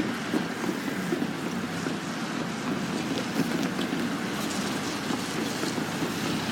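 A steady, low rumble of vehicle noise, with no distinct separate events.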